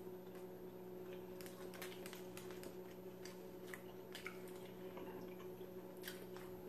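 Faint wet chewing and mouth clicks from eating rotisserie chicken dipped in sauce: many scattered, sharp little clicks and squishes over a steady low hum.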